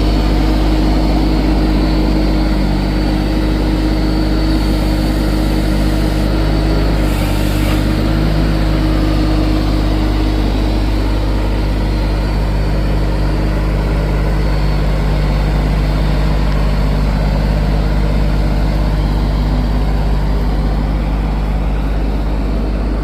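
Solis H24+ compact tractor's diesel engine running steadily at an even speed.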